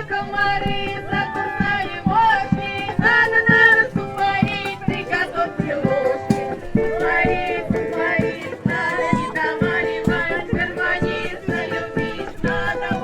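Russian folk song: singing with instrumental accompaniment over a steady beat of about two a second.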